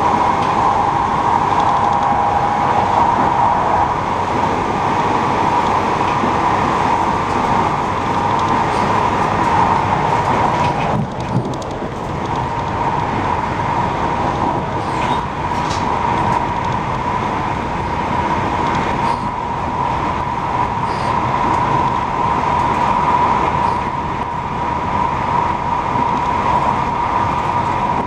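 Passenger train running at speed, heard from inside the carriage: steady rolling noise of wheels on rail with a mid-pitched drone over it. The noise dips briefly about eleven seconds in.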